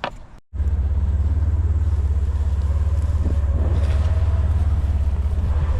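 A motor vehicle's engine running steadily with a low, evenly pulsing rumble, starting abruptly about half a second in.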